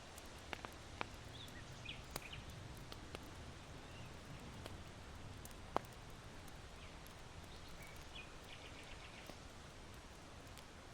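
Charcoal fire in an irori hearth crackling with scattered sharp pops, the loudest about six seconds in, over a steady hiss of breeze. Small birds chirp faintly in the distance, with a quick trill near the end.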